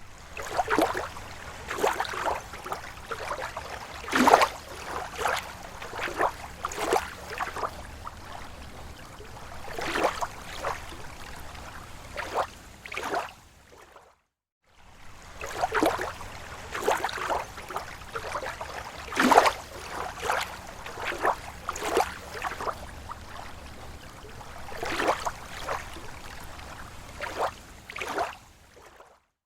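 Small waves lapping against a lake shore: irregular splashes and gurgles over a steady wash of water. It cuts to silence for a moment about halfway through, then the same lapping starts again.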